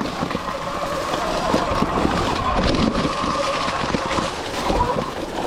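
Sur Ron X electric dirt bike riding over rough trail: a steady motor whine under a busy rattle of short knocks and clatter from the chassis and suspension.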